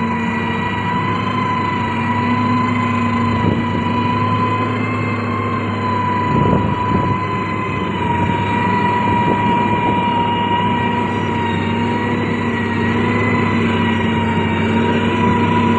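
Heavy diesel road-building machine, a motor grader or road roller, running steadily with a low engine drone and a steady high whine over it. There is a brief thud about six and a half seconds in.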